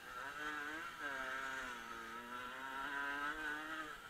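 Dirt bike engine running under load on board the bike. Its pitch climbs and then drops sharply about a second in, as at a gear change. It rises again and drops once more near the end, rising and falling with the throttle.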